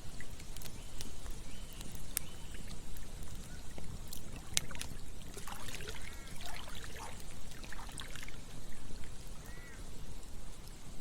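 Campfire crackling, with irregular sharp pops and snaps, over a steady rush of flowing water. A few short chirping calls sound now and then.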